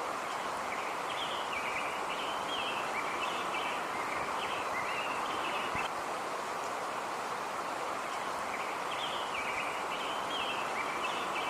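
Outdoor nature ambience: a steady background hiss with small birds chirping in short runs of high notes, once through the first half and again near the end.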